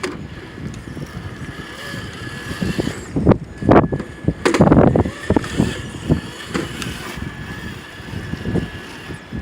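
Wind buffeting the microphone in uneven gusts, strongest around three to five seconds in. Under it is a faint steady high whine from the RC crawler's electric motor and gearbox.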